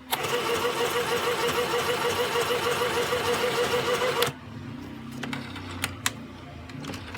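Sew Simple K1127 mini sewing machine running at its high speed setting, a fast, even rattle of the needle mechanism of about eight strokes a second for about four seconds, then stopping abruptly. A few light clicks follow.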